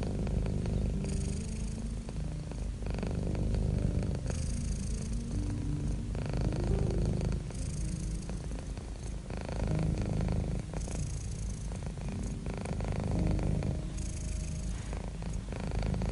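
Domestic cat purring steadily with a deep, low rumble. The purr swells and changes with each breath in and out, about once every three seconds.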